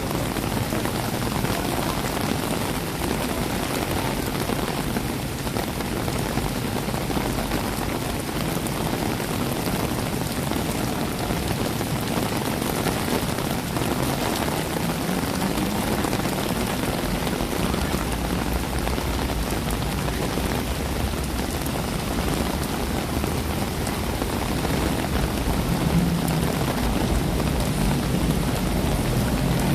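Steady rain falling, a constant even hiss. A low rumble of road traffic grows under it near the end.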